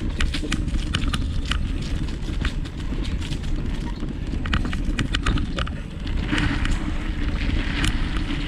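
Bicycle rolling along a dirt trail, with many small clicks and rattles from the bike and tyres, under a steady rumble of wind on the microphone.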